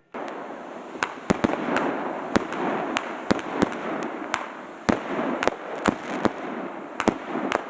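Fireworks going off: an irregular string of sharp bangs, two or three a second, over a steady hiss and crackle.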